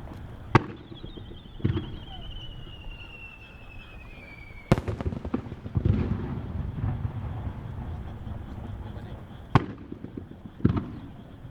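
Aerial firework shells (warimono, the round bursting shells) exploding overhead. There are five sharp bangs, about half a second, two, five, ten and eleven seconds in. The one in the middle is the loudest and rumbles on in echo. A long, falling whistle runs between the first and third bangs.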